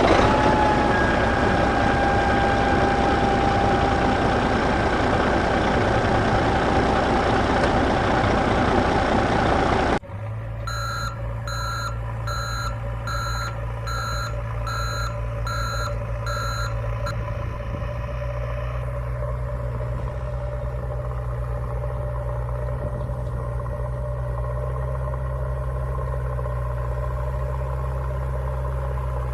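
Vehicle engine running loudly for about ten seconds. After a sudden cut, a reversing alarm beeps about once a second, seven times, over a low steady engine idle that carries on to the end.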